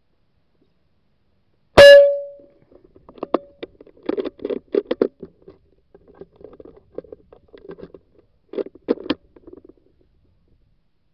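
A single sharp hunting air-rifle shot with a brief ringing tone, about two seconds in, followed by several seconds of irregular soft knocks and fluttering that die away.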